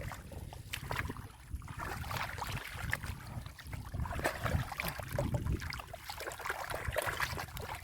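Shallow muddy water sloshing and splashing, with irregular wet crackles and small splashes as hands work through mud and water for fish.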